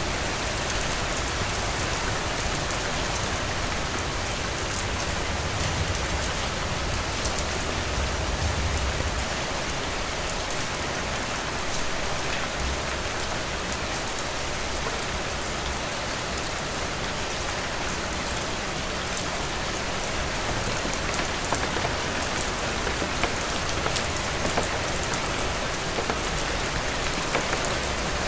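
Heavy rain falling steadily: a dense, even hiss of drops with scattered sharper drop ticks, over a low rumble that is strongest in the first third.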